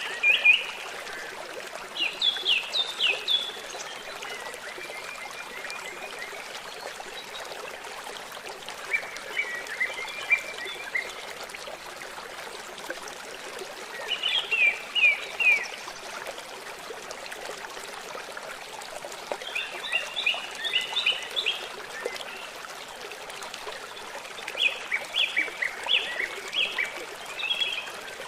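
A songbird singing short phrases of quick, repeated, downslurred notes, about every four to five seconds, over the steady rush of running water from a stream.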